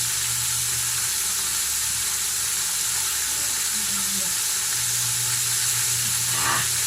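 Chicken frying in hot oil, a steady, even sizzle.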